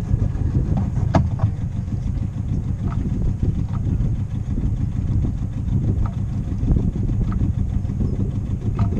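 A sailboat's auxiliary engine running steadily at low speed while the boat manoeuvres into a marina slip, with a sharp click about a second in.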